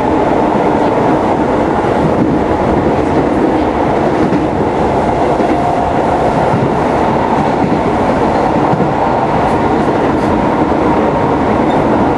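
Keisei 3700 series electric train running along the line: a steady rumble of wheels on rail, with a few faint clicks from rail joints, heard from inside the carriage.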